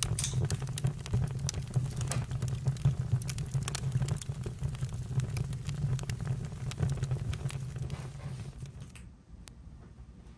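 Campfire crackling and popping: irregular sharp snaps over a steady low rumble of the flames. About nine seconds in the sound drops away to a fainter low rumble.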